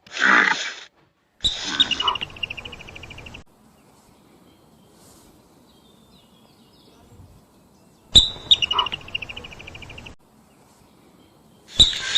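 Animal calls: a short call falling in pitch at the start, then twice a rapid, buzzy, high trill lasting about two seconds, with a quiet stretch between.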